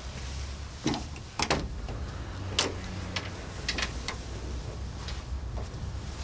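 A run of sharp knocks and clicks, about eight of them spread over several seconds, the loudest near the start, over a low steady hum.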